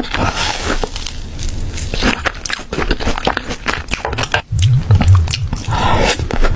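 Close-miked eating: crunchy bites and chewing of fried food, a dense run of irregular crackles.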